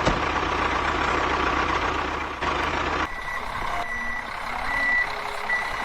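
A steady, noisy motor runs for about three seconds and cuts off abruptly. A truck's reversing alarm follows, beeping high and regularly about once a second.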